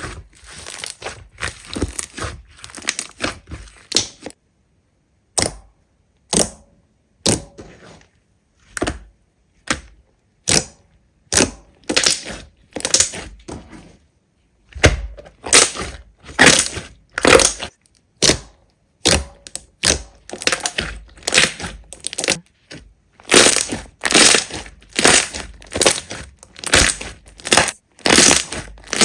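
Slime being squeezed and pressed by hand, giving a quick run of crunchy, crackling pops, several a second. It stops twice briefly and then carries on, densest near the end.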